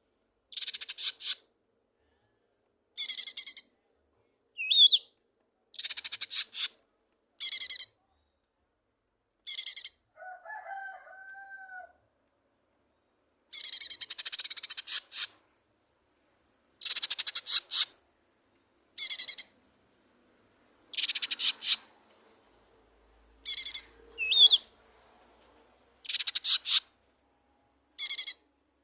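Lesser green leafbird (cucak ijo mini) singing in about a dozen loud bursts of rapid, high, buzzy chattering, each a second or so long with short pauses between. A fainter, lower two-note call comes in between the bursts about ten seconds in.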